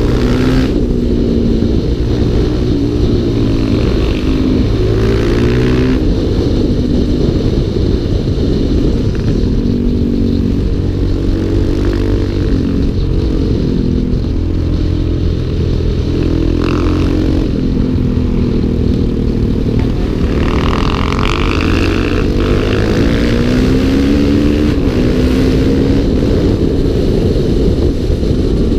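Onboard sound of a single-cylinder dual-sport motorcycle engine. The revs rise and fall as the bike accelerates and backs off through a series of bends, over steady wind rush on the camera microphone.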